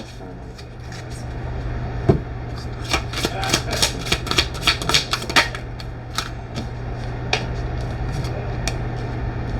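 Tarot cards being shuffled and handled: a run of quick taps and slaps that thins out after a few seconds, over a steady low hum.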